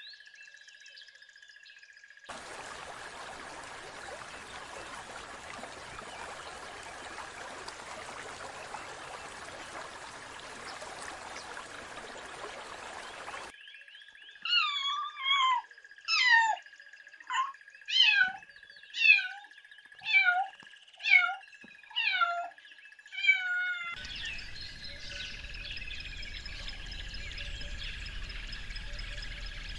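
Domestic cat meowing about ten times in a row, roughly one short meow a second. Before the meows there is a long even hiss; after them, bird calls over steady background noise.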